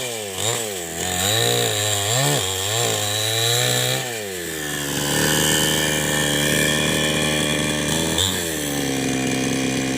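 New West 788 two-stroke chainsaw running, its engine speed rising and falling repeatedly for about four seconds, then dropping and holding steady at a lower speed, with one short blip near the end.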